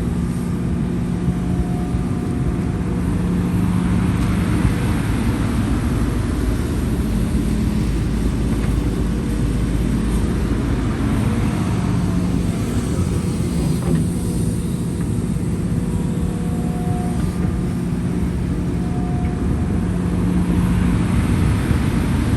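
Heavy diesel earthmoving machinery running steadily: an excavator's and dump trucks' engines, with the low engine note shifting now and then.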